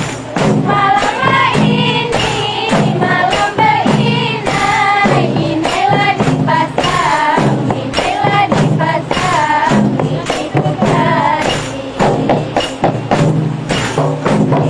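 Rebana ensemble playing: frame drums with jingles beating a steady rhythm under a sung melody.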